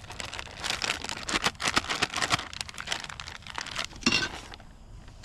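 Plastic zip-top bag crinkling and rustling in quick bursts as it is handled and shaken with seasoned breading inside, for coating catfish. There is a louder burst of rustling about four seconds in.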